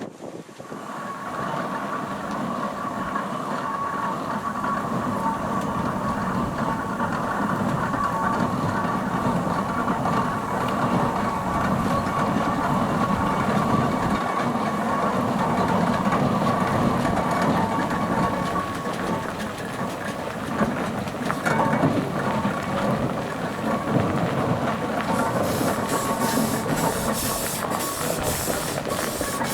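Steam traction engine running, a steady mechanical clatter with a thin steady whine. About 25 seconds in, a rapid series of sharp hisses of steam joins it.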